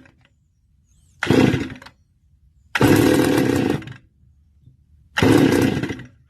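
Stihl FS280 brush cutter's two-stroke engine cutting out, then firing three times in short bursts of under a second, each dying away: the hot engine will not stay running.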